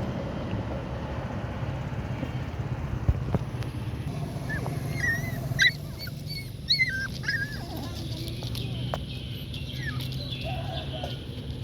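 Puppies whimpering and squealing in short, high-pitched cries, bunched together about halfway through, over a steady low hum.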